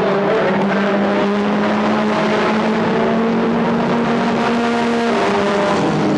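Stock car engines running loud and steady at racing speed, with the engine note shifting lower about five seconds in.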